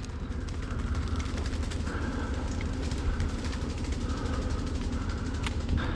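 A vehicle's engine running, a steady low rumble with fine rattling, and one sharp click about five and a half seconds in.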